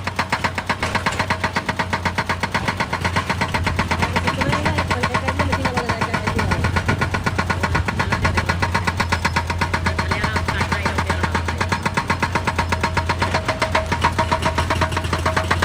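Heavy diesel machinery running steadily, with a fast, even pulse.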